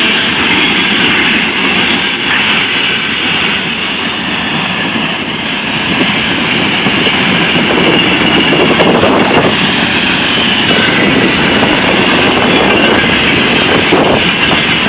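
VL80S electric locomotive and its freight train running past, a loud, steady noise of the train on the rails.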